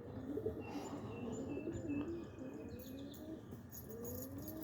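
Domestic roller pigeons cooing softly in the loft: a string of short, low coos, each rising in pitch, one after another, with a few faint high chirps above them.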